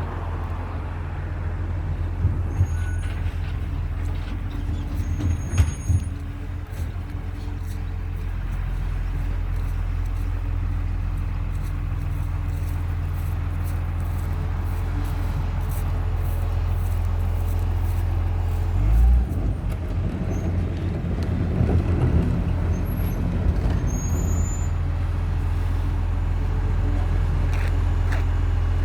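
Recycling truck's engine running steadily at a low drone, with a couple of sharp knocks early on and a heavy thump about two-thirds of the way through as bins are picked up.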